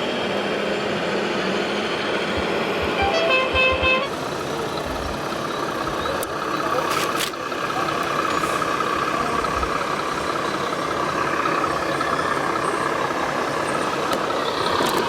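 An RC model truck's sound-module horn gives a short toot about three seconds in, over the steady whine and running of radio-controlled trucks' electric motors and gearboxes.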